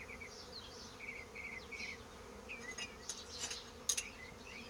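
Honeybees buzzing in a steady hum around a freshly split hive. Runs of three to five short high chirps are heard several times, with a few sharp clicks a little after three seconds and near four seconds.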